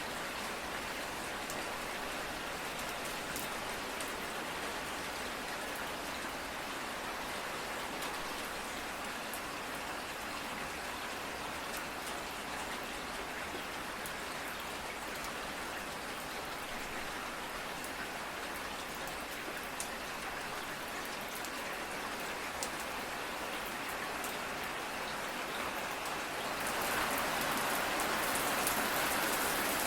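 Steady rain falling, with the ticks of single drops hitting a surface. The rain grows heavier and louder near the end.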